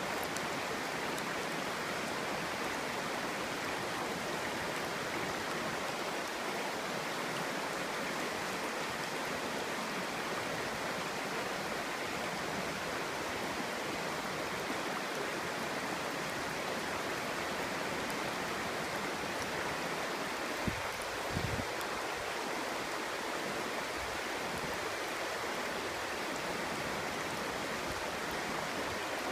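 A clear stream flowing and babbling steadily, with a couple of soft low thumps about two-thirds of the way through.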